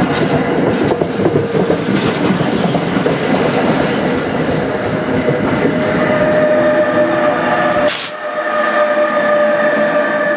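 NJ Transit electric commuter train passing close by on the rails, its cars rumbling and clattering over the track. About eight seconds in a sharp crack is followed by the rumble falling away, leaving a few steady tones.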